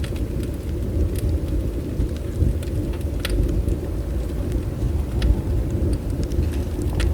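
Bonfire burning: a steady low rumble of flames with scattered sharp crackles and pops from the burning wood.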